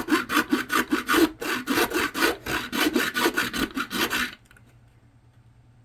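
Hacksaw cutting through thick solid plastic in rapid, even back-and-forth strokes, stopping about four seconds in.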